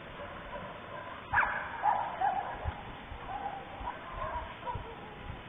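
An animal's short calls: a sharp yelp about a second in, then several shorter whining calls, over a steady faint hiss.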